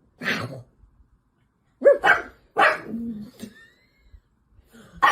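A dog barking several times in short, separate barks, with gaps between them.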